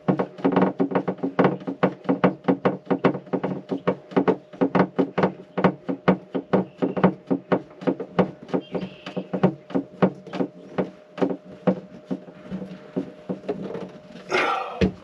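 Ratchet wrench clicking in a steady run of about five clicks a second, over a faint steady hum.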